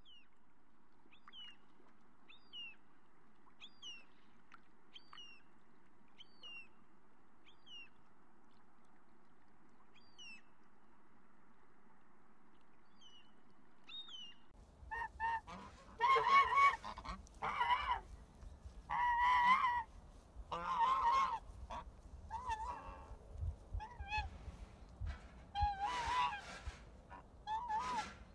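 Faint steady surf with scattered short, high chirps. About halfway through, greylag geese start honking loudly in repeated calls that rise and fall in pitch.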